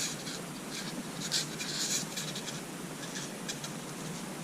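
A new distributor cap being handled and fitted onto the distributor by hand: a few light clicks and scrapes of plastic on metal, busiest about one and a half to two seconds in.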